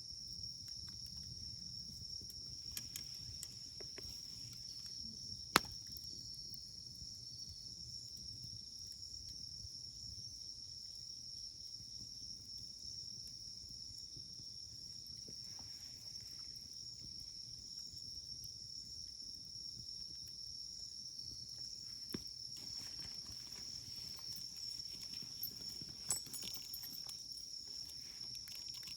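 Wood fire burning quietly, with a few sharp pops of the firewood, the loudest about five seconds in and smaller ones about 22 and 26 seconds in. A steady, high-pitched insect chirring runs underneath.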